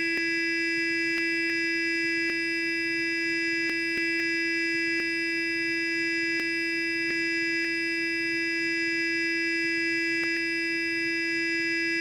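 Sonic electric toothbrush running continuously: a steady, unchanging buzzing hum, with faint clicks now and then.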